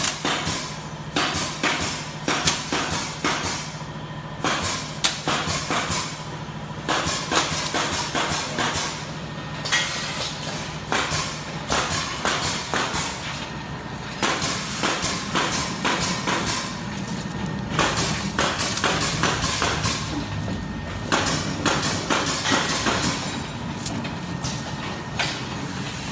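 Automatic packing machine for bamboo chopsticks and skewers running: a steady motor hum under rapid, irregular clattering and knocking of its mechanism.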